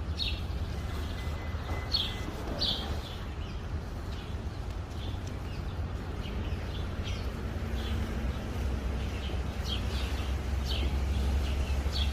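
Small birds singing outdoors: short, high, falling chirps repeated irregularly throughout, over a steady low rumble.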